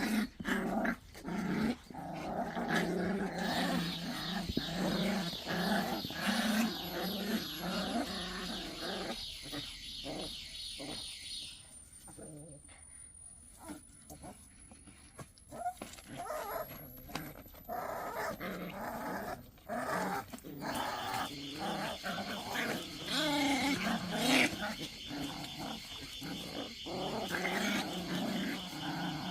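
Pungsan dog puppies growling repeatedly as they tussle in a play-fight over rank.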